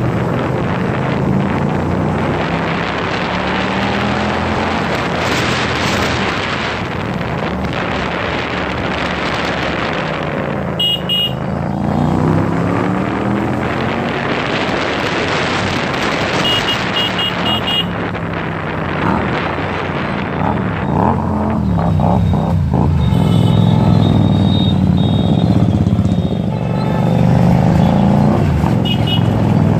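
Hyosung GTR 250's V-twin engine through an SC Project exhaust while riding, its pitch rising and falling as it revs through the gears, with wind rushing over the microphone.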